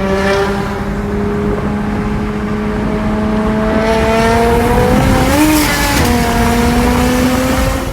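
Engine of a BMW 335is, its N54 straight-six converted to a single turbo, running under load. Its pitch climbs slowly and steadily, with a short rise and fall about five seconds in.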